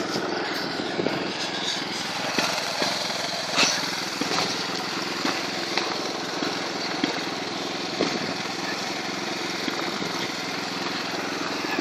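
Motorcycle engine running at a steady speed while riding, with no change in revs.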